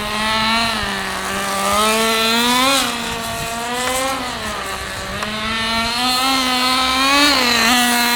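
Nitro RC truck's small two-stroke glow engine running, its pitch rising and falling repeatedly with the throttle.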